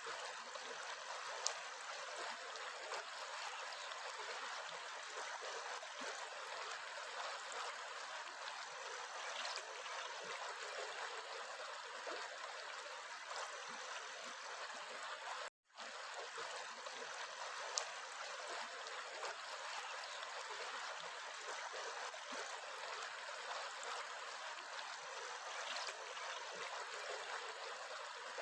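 Steady running water of a small stream, an even babbling rush that cuts out for an instant about halfway through. There is a faint sharp tick twice.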